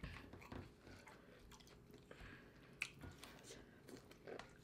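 Faint mouth sounds of eating: chewing and biting into food, with scattered small wet clicks and smacks, the sharpest a little before three seconds in.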